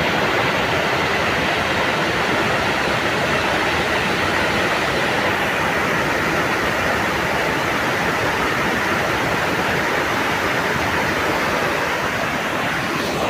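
Rushing water, a steady, even, loud rush without any rhythm.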